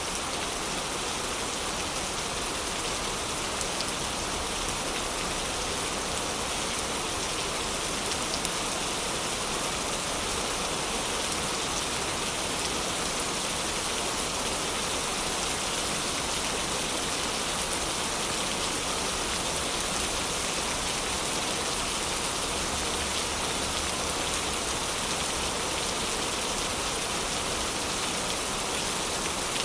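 Heavy rain falling steadily, an even, unbroken hiss of rain on a surface.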